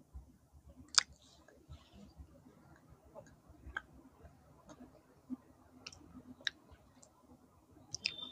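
A man chewing a mouthful of Roti John sandwich bread with his mouth closed: quiet, with scattered sharp wet mouth clicks, the loudest about a second in.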